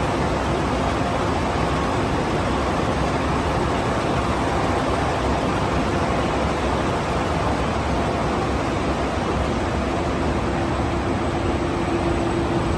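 Machinery of a braided-hose production line running, a steady mechanical din with no breaks. A low steady hum comes in near the end.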